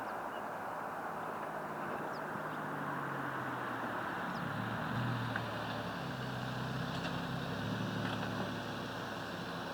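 Toyota Verossa JZX110's 1JZ-GTE turbocharged straight-six running at low, steady revs through a ReiN HarD Cannonball dual muffler; the exhaust note rises a little about four and a half seconds in.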